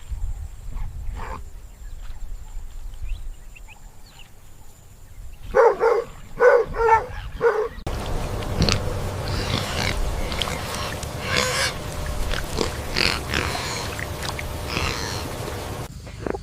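Pigs calling. About a third of the way in there is a run of about five short, loud, pitched grunts at roughly two a second. After an abrupt cut come harsher, noisier squealing calls over a steady background hiss.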